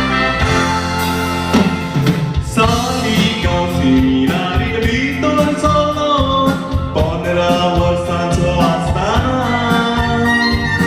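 Music from a Konkani song: keyboard backing with a melody that bends in pitch, and a singing voice.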